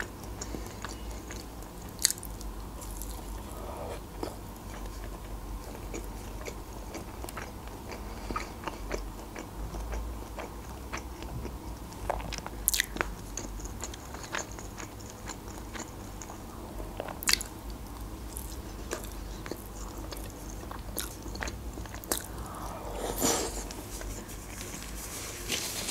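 Close-miked chewing of a soft meat roll with cheese and potato: many small sharp mouth clicks, with a few louder ones now and then.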